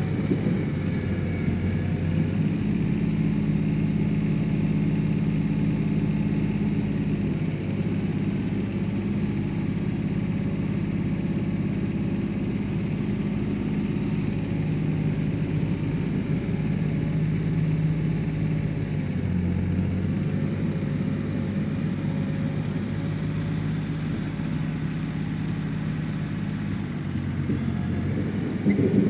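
John Deere 1050 tractor's three-cylinder diesel engine running steadily, its note shifting a few times with throttle or load changes.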